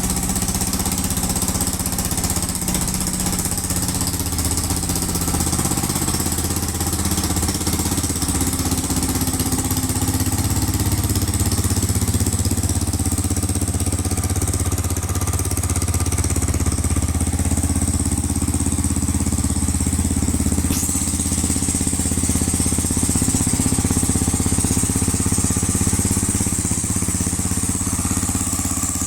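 Yamaha Serow 250's air-cooled single-cylinder four-stroke engine idling steadily after start-up.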